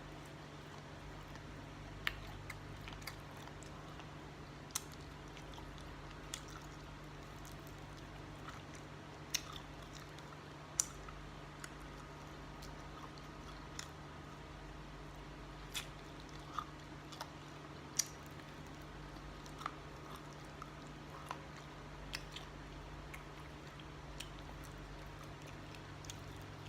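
Quiet eating sounds: chewing, with small sharp clicks scattered irregularly every second or two, over a steady low hum.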